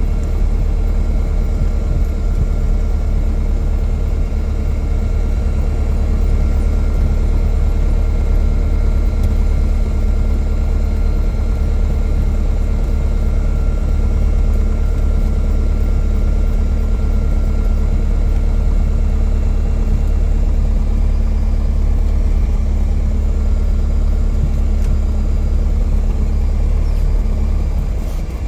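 Cessna 177 Cardinal's engine and propeller running at a steady setting, a loud unbroken drone with a low rumble and an even hum.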